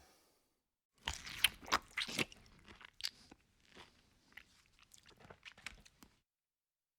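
A person biting and chewing crunchy food: a run of sharp crunches, loudest in the first second or so, then weaker ones, stopping about six seconds in.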